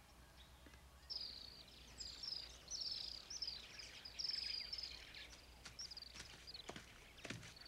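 Birds chirping in a forest: a run of short, high chirps, each falling in pitch, from about a second in until about five seconds in, with a few soft knocks near the end.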